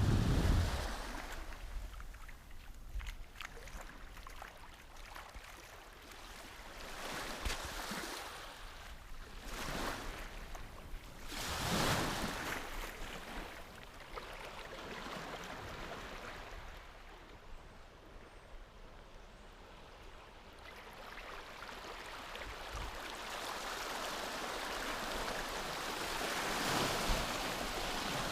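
Small waves breaking and washing up a beach, swelling and fading every few seconds. The loudest surge comes about twelve seconds in.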